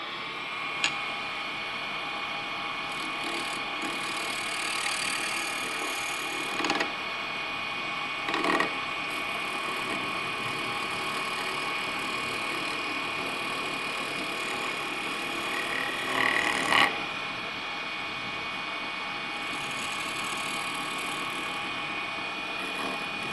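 Wood lathe running steadily with a thin motor whine as a wooden sphere spins between chuck and tailstock. Short scraping swells, about a third of the way in and again about two-thirds through, as the turning tool takes light cuts on the spinning wood.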